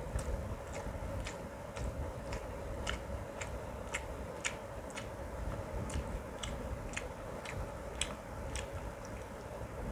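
Close-up chewing of mutton curry and biryani: short, sharp mouth clicks about twice a second, irregularly spaced, over a steady hum.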